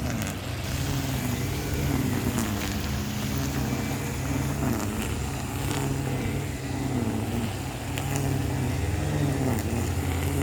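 A steady low motor hum, with a fainter tone above it that wavers up and down about once a second.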